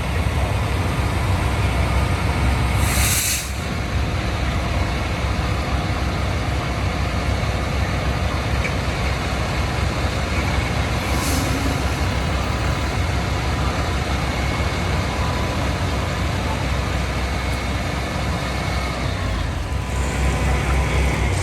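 Fire ladder truck's diesel engine running steadily, with two short air-brake hisses, one a few seconds in and a shorter one about halfway through.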